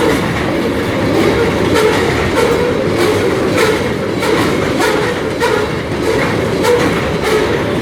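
A coal train's rail cars rolling past at close range: a steady loud rumble of wheels on rail, with sharp clacks about once or twice a second as the wheels cross rail joints.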